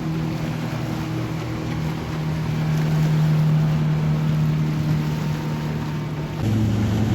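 Motorboat engines running steadily as boats pass through an inlet, one engine getting louder about three seconds in; a second, deeper engine sound comes in near the end. Wind and water noise sit underneath.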